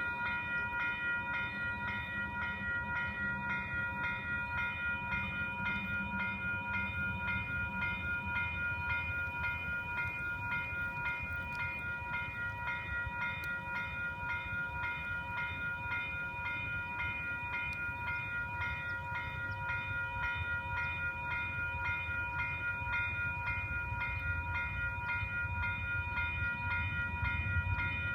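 Railroad grade-crossing bell ringing steadily at about two strikes a second, over the low rumble of an Amtrak Downeaster passenger train rolling through the crossing.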